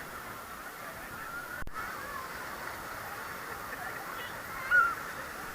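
Faint voices of many people calling and shouting at a distance, with one louder call near the end.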